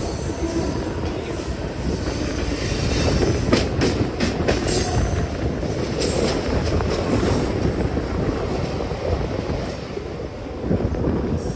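Mumbai suburban local train (EMU) running, heard from its open doorway: a steady rumble of wheels on the rails, with a few sharp clicks about four to six seconds in.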